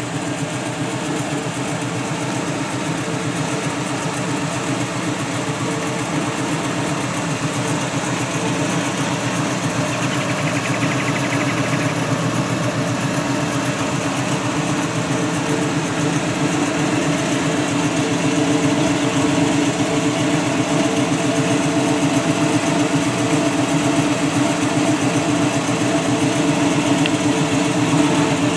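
A 1980 Chevrolet El Camino's 5.0-litre V8 idling steadily through Hooker competition headers.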